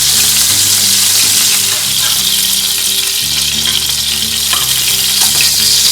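Chicken pieces searing in sunflower oil in a pan, a steady loud sizzle.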